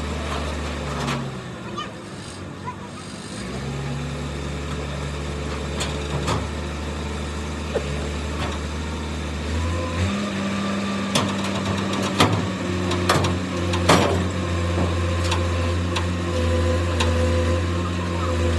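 An engine or motor running steadily with a low hum, its pitch stepping up about ten seconds in, with scattered sharp knocks and clicks over it.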